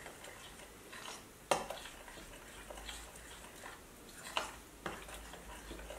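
Korean pancake batter being stirred in a glass bowl: a faint scraping swish with a few sharp clinks of the utensil against the glass, the loudest about one and a half seconds in.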